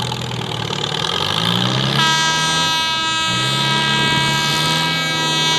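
A pulling tractor's engine revs up, eases off and then holds steady. About two seconds in, a steady high-pitched whine cuts in and keeps going.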